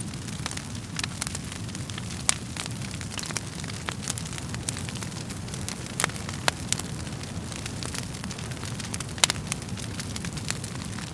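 Wood fire crackling and popping: irregular sharp snaps over a steady low rumble of flames, with a few louder pops scattered through.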